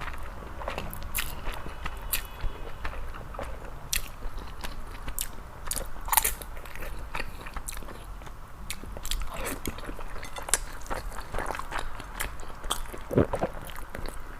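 A person eating scallion-oil mixed noodles close to the microphone: irregular chewing with many small wet mouth clicks.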